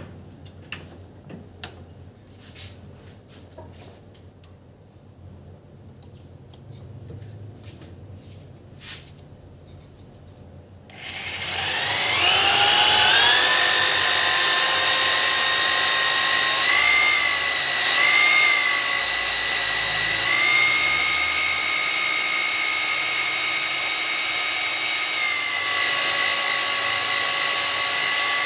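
A few light handling clicks, then about eleven seconds in an electric drill fitted with a cobalt drill bit starts, spins up to a steady high whine, and dips briefly in pitch several times as the bit takes load.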